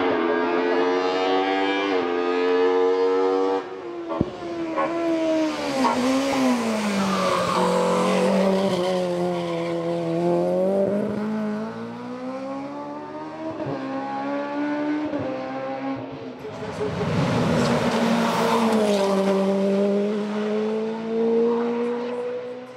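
Hillclimb race car engine at full throttle, its pitch climbing and then dropping sharply with a lift or gear change, falling and rising again as the car brakes and accelerates through the bends. Two stretches of loud hiss are likely tyre noise as the car passes close.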